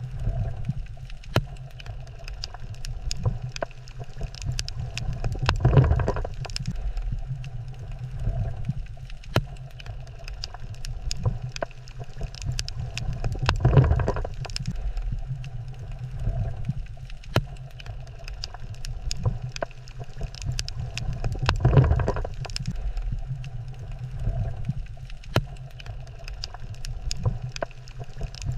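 Underwater reef ambience: a steady low rumble with many scattered sharp clicks, swelling three times at about eight-second intervals.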